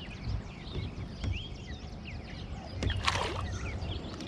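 Knocking and rumbling handling noise on a kayak while a fish is reeled in, with a short splashy rush about three seconds in. Many birds chirp throughout.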